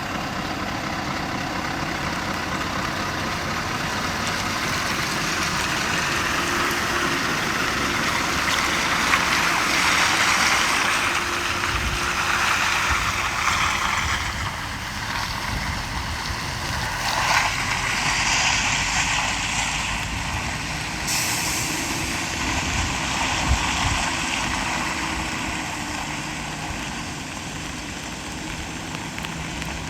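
Scania R520 truck's V8 diesel engine running steadily under a continuous rushing noise, which swells a little about a third of the way in.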